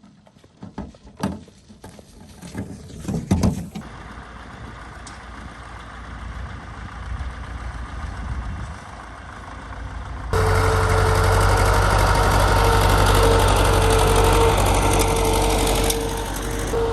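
A few clanks and knocks, then an old tractor's engine running steadily. About ten seconds in it becomes much louder, a steady drone with a held tone.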